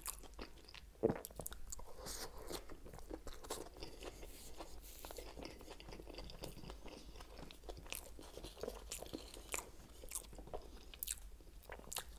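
Close-miked chewing of a mouthful of Subway sub sandwich: soft, wet mouth clicks and small crunches, with a sharper one about a second in.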